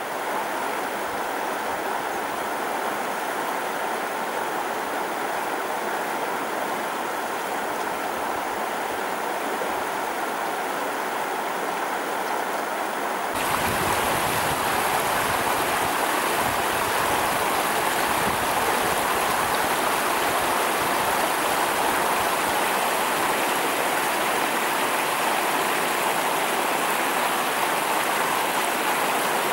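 Stream water flowing in a steady rush. About 13 seconds in, it switches abruptly to a louder, deeper rush of water.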